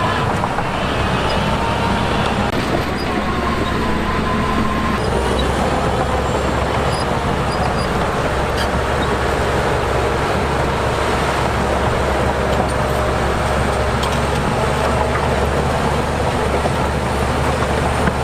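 Diesel engine of heavy earthmoving machinery running steadily, a continuous loud mechanical din with a low engine hum underneath.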